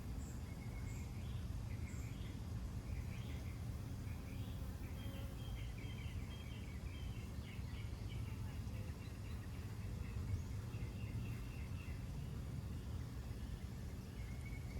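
Small birds chirping repeatedly over a steady low background rumble, with a quick run of chirps about five to nine seconds in.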